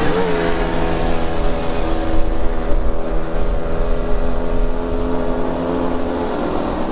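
Several small two-stroke moped engines running together as the mopeds ride along, their overlapping engine tones steady, with a slight dip in pitch just after the start.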